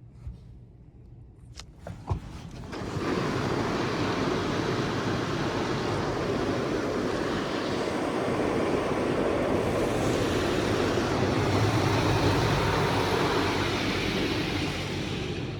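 Touchless automatic car wash spraying high-pressure water onto the car, heard from inside the cabin as a dense, steady rush that starts suddenly about three seconds in. A couple of sharp clicks come just before it starts.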